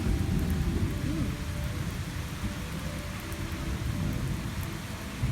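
Thunder rumbling over steady rain: the deep rumble sets in suddenly and rolls on for several seconds, slowly easing. It follows a lightning flash judged at about a mile and a half away.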